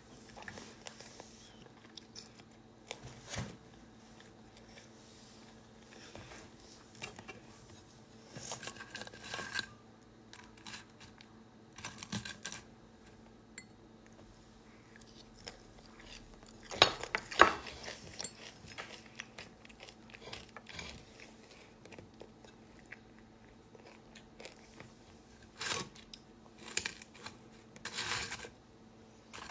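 A person eating: scattered chewing and crunching sounds, with a couple of sharper clatters about halfway through, over a faint steady hum.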